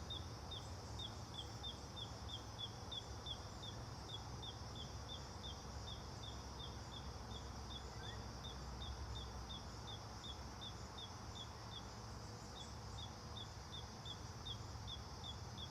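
A bird repeating a short, high, down-slurred chirp about three times a second, with a brief pause near the end, over a steady high insect drone and a low rumble.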